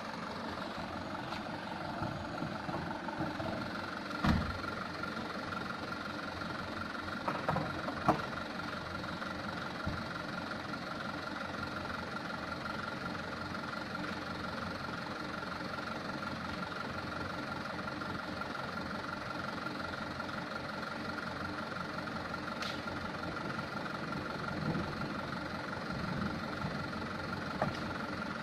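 Mitsubishi Canter truck's diesel engine running steadily, with a few short sharp knocks about four and eight seconds in.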